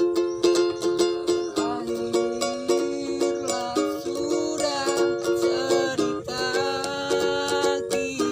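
Small plucked-string instrument such as a ukulele, strummed in a steady rhythm of chords. From about two seconds in, a melody line that slides and bends in pitch plays over the strumming.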